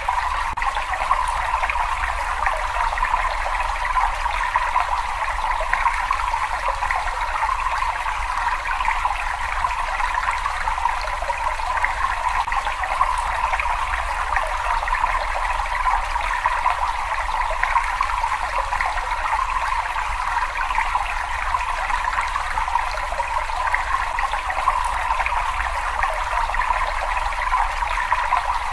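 Running cave water trickling in a steady, unchanging stream, with a constant low rumble underneath.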